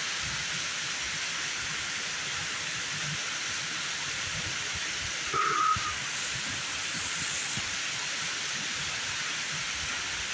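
Heavy thunderstorm rain pouring down, a steady even hiss. A short higher-pitched sound breaks in briefly about halfway through.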